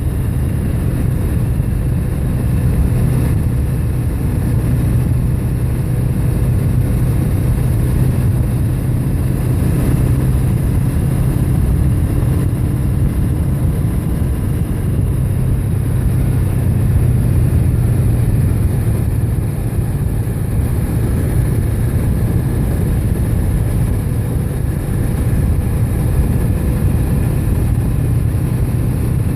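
Motorcycle engine running at a steady cruising speed, with wind and road noise on the microphone.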